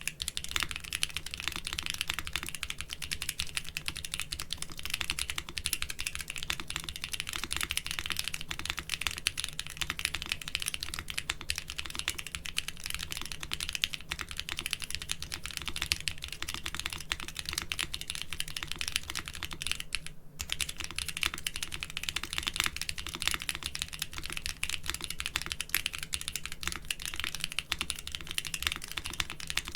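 Continuous fast typing on a mechanical keyboard with doubleshot keycaps: a dense run of overlapping key clacks, broken once by a very short gap about two-thirds of the way through.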